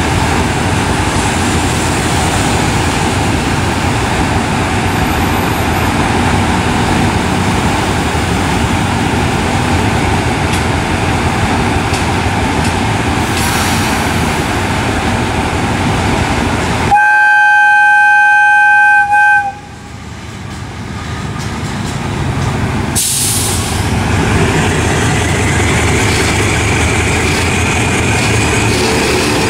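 Passenger train carriages rolling past close by, a steady loud noise of wheels on the rails. About 17 seconds in, a train horn sounds very loudly as one steady chord for about two and a half seconds and cuts off sharply. The rolling noise then builds back up over a few seconds.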